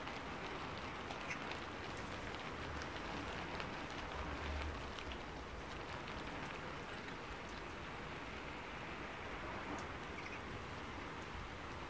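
Steady hiss of heavy rain, with a few faint small clicks of steel tweezers on the watch movement's parts.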